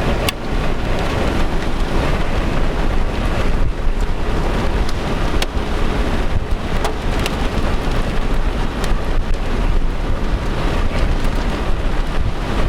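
Steady loud rush of rain and road noise heard inside a moving car, with scattered sharp ticks against it.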